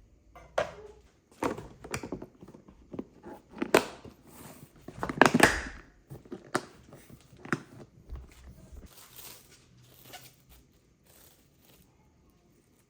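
Irregular kitchen handling noises: sharp knocks and clicks, with a burst of rustling about five seconds in, then only faint scattered ticks near the end.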